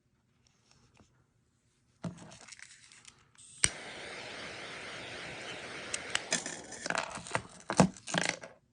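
A sharp click, then butane gas hissing steadily from the refillable gas lighter for about three seconds, followed by several small clicks and scraping handling noises.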